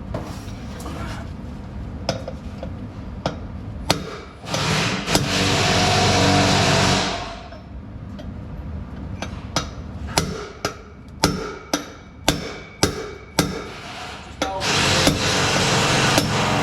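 Hammer blows on metal at the truck's axle hub, knocking at the inner seal: scattered strikes, then a run of about a dozen at roughly two a second. Two louder spells of steady whirring noise, each two to three seconds long, come about four seconds in and again near the end.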